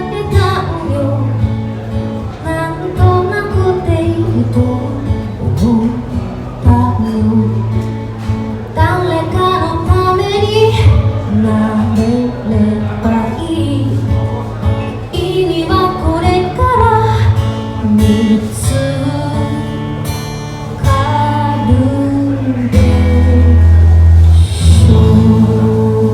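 A woman singing a ballad to her own acoustic guitar in a live performance. The music swells louder near the end.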